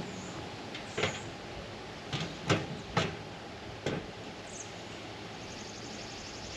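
About five knocks and clunks, spaced a second or less apart, from roof rack and roof basket parts being handled and set down on the van's roof. The loudest comes about two and a half seconds in.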